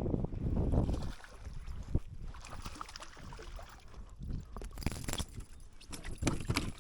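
Wind buffeting the microphone for about the first second, then light water sloshing with scattered small clicks and knocks around a fishing kayak.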